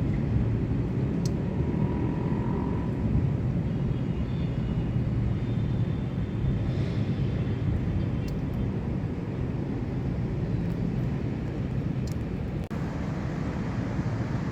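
Heavy tropical rain pouring down steadily, a dense low rumble of rainfall that dips briefly and changes texture about twelve and a half seconds in.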